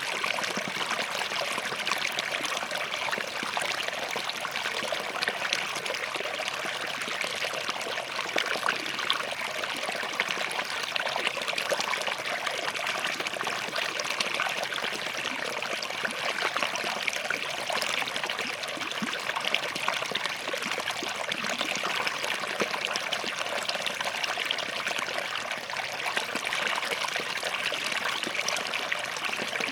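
Small forest stream running steadily over and between rocks, a continuous trickling and splashing.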